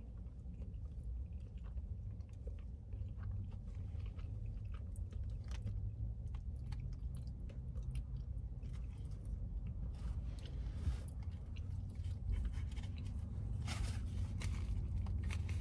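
A person chewing loaded fries with bacon, with small crunches and clicks between bites, over a steady low hum.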